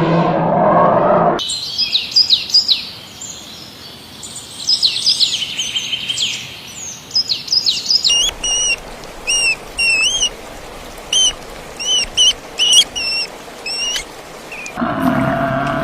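Birds calling: a run of fast high chirps and trills, then, about halfway through, a different call of short, sharply inflected whistled notes repeated about once a second. A low drawn-out animal call ends about a second in, and another starts near the end.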